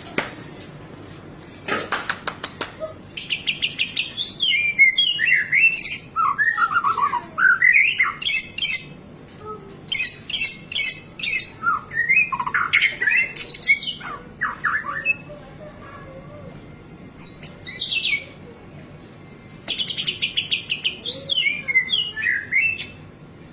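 White-rumped shama (murai batu) singing a loud, fast, varied song of whistled glides, buzzy trills and rattling notes. The song comes in bursts with two short pauses.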